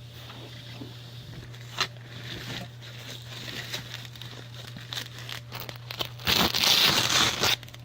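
Items being handled and rummaged through: crinkling rustles and small clicks, a sharp click about two seconds in, and a louder stretch of rustling about six seconds in. A steady low hum runs underneath.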